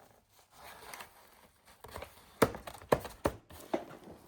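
A child car seat being handled: its fabric cover rustles, then four or five sharp plastic knocks or clicks come close together about two and a half seconds in.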